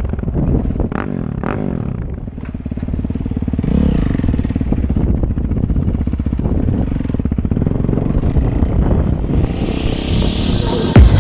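Yamaha YZ450F dirt bike's single-cylinder four-stroke engine running, with a brief rev about four seconds in.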